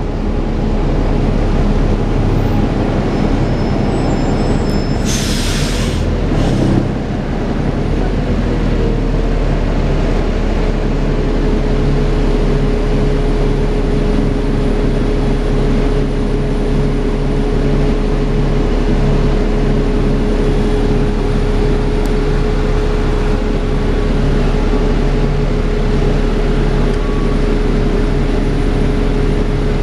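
Dennis Trident 2 double-decker bus with Alexander Enviro 400 body, heard from on board: the engine runs with a steady vacuum-cleaner-like whine, the 'hoovering' sound, which grows stronger after about ten seconds. A short hiss of air comes about five seconds in.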